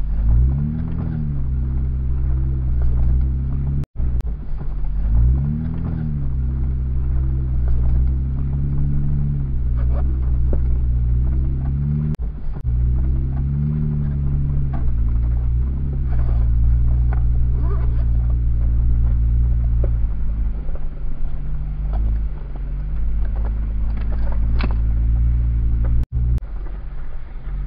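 Jeep engine running as it crawls along a rocky trail, its revs rising and falling several times between steadier stretches, with scattered light knocks.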